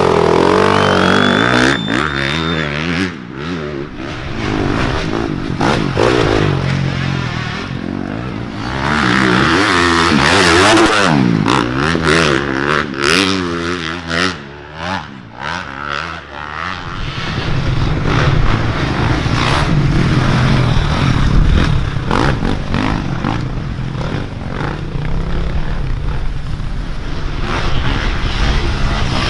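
Dirt bike engines revving up and down as race bikes ride past, the pitch rising and falling with each throttle change; after about halfway the sound turns into a rougher, steadier rumble.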